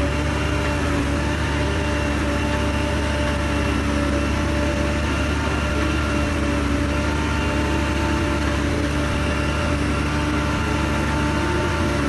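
Heavy diesel earthmoving machine's engine running steadily at an even speed, with a constant drone and no revving.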